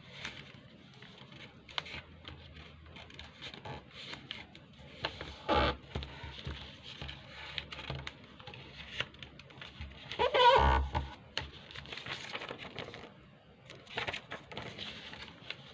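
A sheet of paper rustling and being creased by hand as it is folded, with scattered soft clicks and a knock about five and a half seconds in. About ten and a half seconds in comes the loudest sound, a brief pitched call with a wavering tone.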